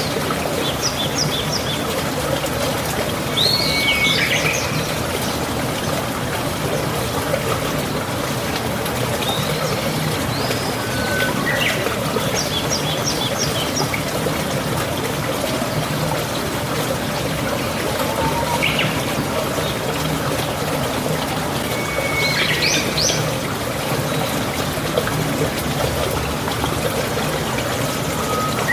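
Steady rushing water, with birds calling in short chirps every few seconds.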